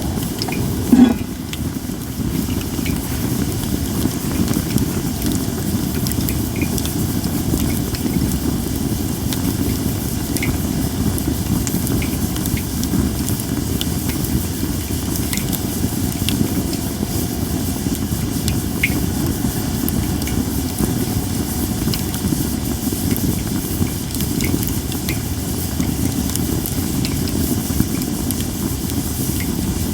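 Japanese cedar (sugi) campfire burning with a steady hiss and scattered small crackling pops, with one sharper, louder pop about a second in.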